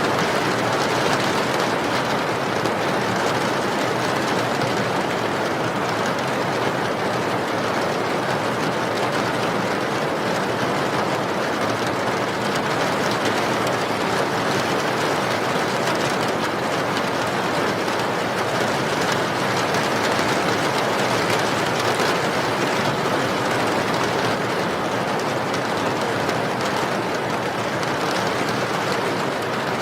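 Steady rain, an even continuous rush of noise with no breaks.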